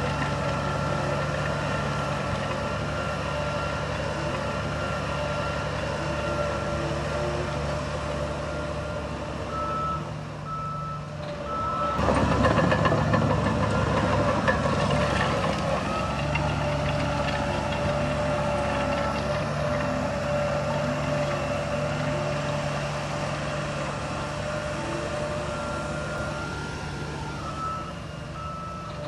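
Heavy construction machinery, a dump truck and a bulldozer, running steadily while a reversing alarm beeps repeatedly. About twelve seconds in, an engine works harder and grows louder for a few seconds.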